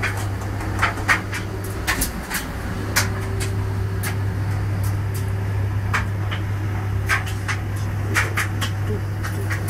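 Washing machine running a wash cycle: a steady low hum with sharp, irregular clicks about once a second.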